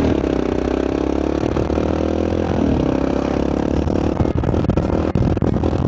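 BMW F650 Funduro's single-cylinder engine running under way, its pitch dropping at the start and shifting again partway through, as between gears. Irregular clattering joins it about four seconds in.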